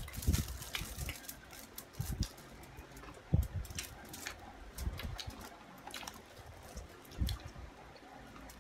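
People chewing and eating at close range: wet mouth sounds with scattered light clicks and soft knocks.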